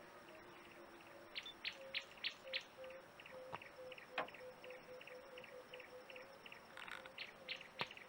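A bird giving a long run of short, repeated calls, about three a second, over a faint steady hum.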